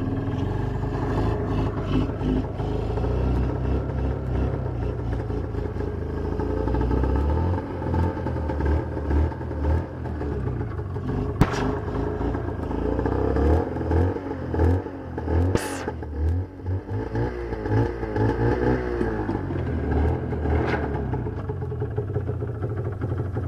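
Twin-cylinder snowmobile engine running rough and uneven, surging in fits through the middle, with a few sharp clacks. It doesn't sound too good: one cylinder has a big hole in its piston, so only the good cylinder fires properly.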